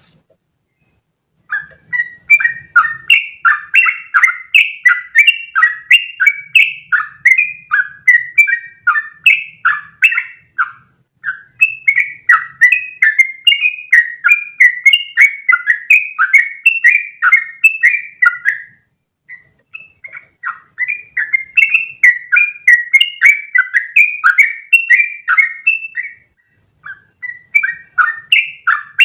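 Yellow-vented bulbul (trucukan) singing its long, rapid, bubbly chattering song in extended runs, starting about a second and a half in, with a few short breaks.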